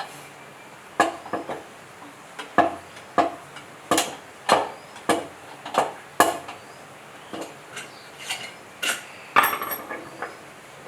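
Metal tools and parts clinking and tapping in a string of sharp knocks, roughly one a second, with a quick cluster of knocks near the end.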